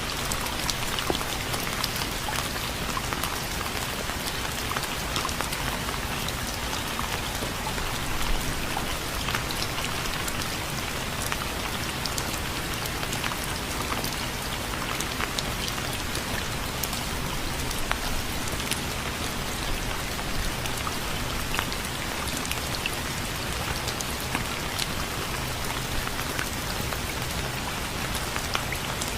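Steady rain falling on a surface, a constant hiss dotted with many distinct drop ticks.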